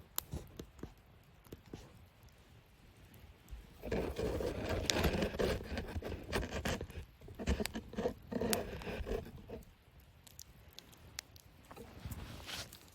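Wood fire in a fire-pit stand crackling, with sharp pops throughout. About four seconds in comes a louder stretch of rustling and scraping that lasts about five seconds.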